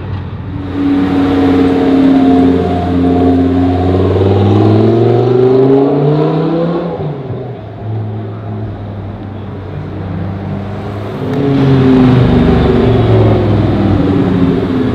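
Audi R8 V10 Plus's 5.2-litre V10, fitted with a Per4mance aftermarket exhaust, revving hard as the car accelerates, its pitch climbing and falling. It drops back for a few seconds in the middle, then comes back loud near the end as the car rounds the bend close by.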